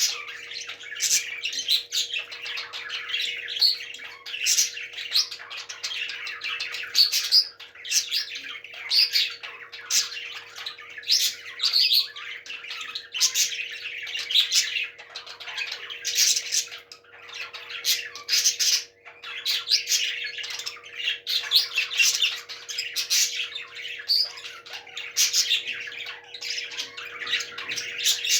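Parrots squawking, harsh calls repeated a few times a second without a break, over a faint steady hum.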